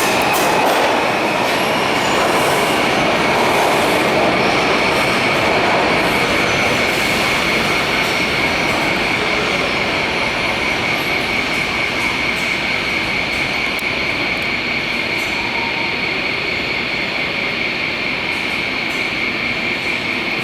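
R142 subway train running on the rails with a steady rumble and a sustained high-pitched wheel squeal, slowly growing quieter.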